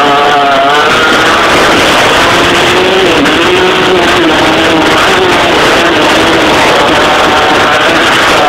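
Motocross bike engine running loud, its pitch rising and falling as the throttle is worked.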